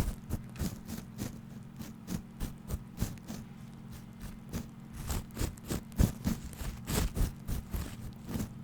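Fast ASMR tapping and scratching on unidentified objects: quick, irregular sharp taps, often several a second, over a low steady hum.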